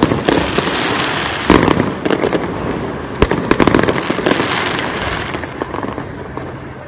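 Fireworks display: aerial shells bursting with sharp bangs, the two loudest about a second and a half and three seconds in, over a dense run of small pops and crackles that dies away near the end.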